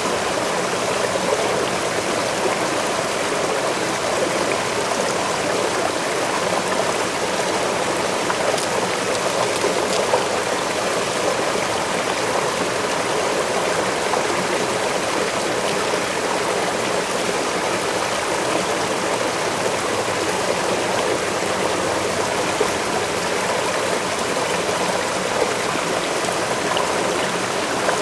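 Waterfall, a steady even rush of falling and splashing water with no breaks or changes.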